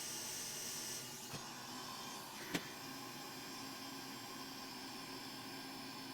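Steady low hiss, with a higher hiss that fades out about a second in, a faint tick shortly after, and one sharp click about two and a half seconds in.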